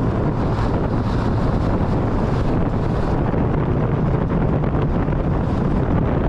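Steady wind buffeting the microphone, a loud, even rumble.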